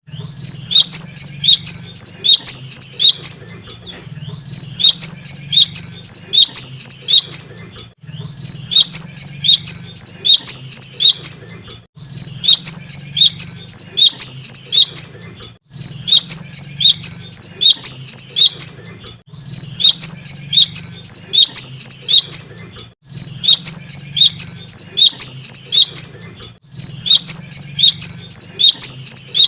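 Cinereous tit (gelatik batu) singing: loud phrases of quick, high chirps, each about three seconds long, repeated after short pauses, about eight times.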